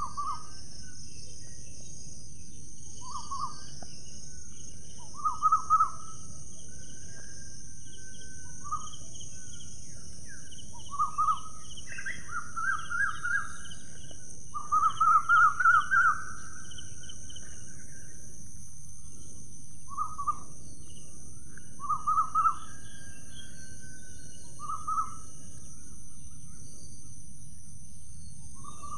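A bird calling in short, quick-chattering bursts of repeated notes every couple of seconds, the longest and loudest run about halfway through, over a steady high-pitched insect drone.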